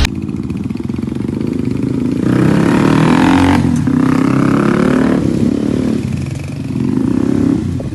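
Italika RT200 motorcycle engine running and being revved: it rises about two seconds in and holds for a few seconds, drops back, then rises again briefly near the end.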